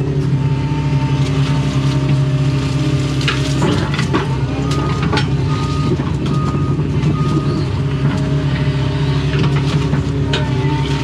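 Doosan excavator's diesel engine running steadily under working load, heard from inside the cab, with knocks and scrapes of the bucket in the ditch about a third of the way in. Four short high beeps sound evenly spaced around the middle.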